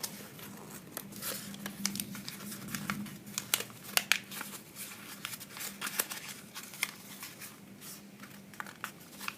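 A sheet of paper being folded and creased by hand into a paper airplane, crinkling and crackling in irregular sharp bursts.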